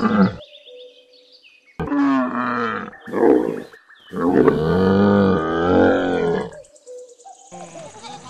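Camel calling: a low call of about a second, a short second call, then a longer, deep call of about two and a half seconds, each with a wavering pitch.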